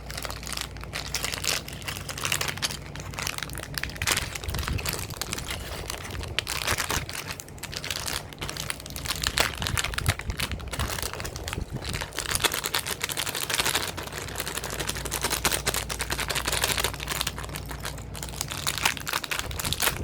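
Plastic packaging crinkling and rustling in irregular bursts as it is handled and opened, over a steady low hum.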